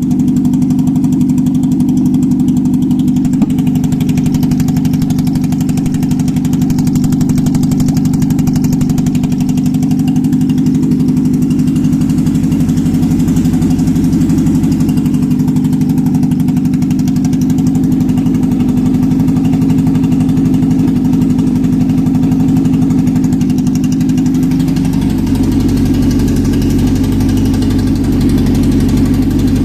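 Mazda-built PE-VPS 2.0-litre four-cylinder petrol engine from a Nissan Lafesta, running steadily at idle on a test stand. Its note changes slightly about 25 seconds in.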